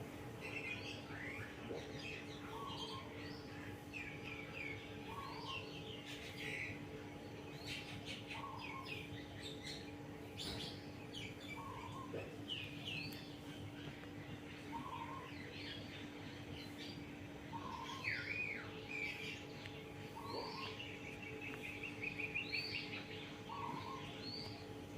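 Birds chirping and twittering over a steady low hum from an old KDK ceiling fan's motor, with a short lower note repeating about every two seconds.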